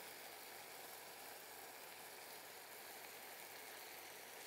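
Faint, steady sizzling of mashed lote (Bombay duck) fish cooking in a wok on the stove.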